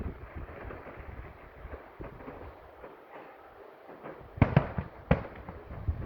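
Fireworks bursting: three sharp bangs in quick succession near the end, over a steady background rumble.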